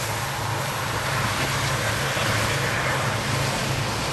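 Diesel-hauled freight train passing close by: a steady low rumble under a wide hiss of rolling noise.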